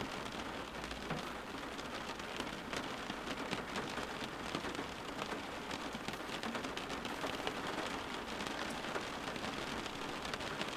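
Steady rain falling on a surface: an even hiss dotted with many small individual drop ticks, without let-up.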